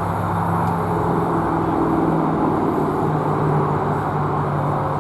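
ALCO RS-1 diesel-electric locomotive's engine running steadily as the train moves, a low even hum whose pitch sags slightly in the second half.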